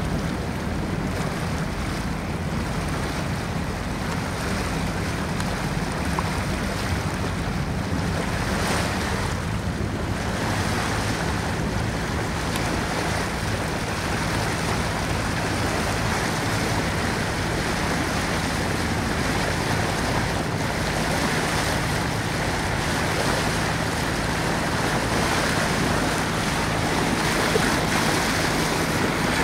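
Boat under way: a steady low engine hum with water rushing past the hull and wind buffeting the microphone.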